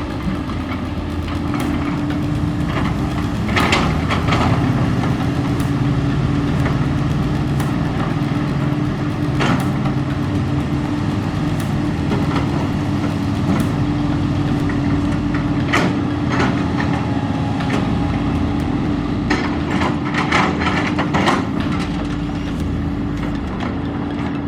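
Heavy diesel engine running steadily with a constant low drone, with scattered metallic knocks and clanks at several points.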